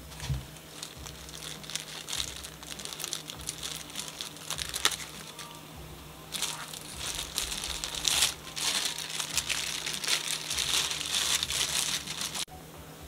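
Packaging crinkling and crumpling as it is handled, in irregular crackly bursts that get busier in the second half and stop abruptly near the end.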